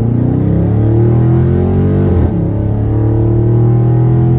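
Dodge Charger Scat Pack's 392 HEMI V8, with the mid-muffler deleted, at full throttle. The engine note climbs steeply, breaks briefly for an upshift about two seconds in, then climbs again more slowly in the next gear.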